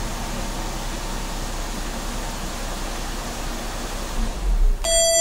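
The 2011 Infiniti G25x's V6 idling on remote start with a steady hum, cutting off near the end when the remote starter shuts it down. Just after, a smartphone app chime begins, a short run of descending tones.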